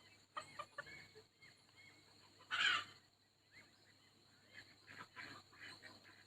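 Soft, faint calls from a flock of poultry, with clucking from a small bantam rooster among ducklings, ducks and geese. One louder call comes about two and a half seconds in.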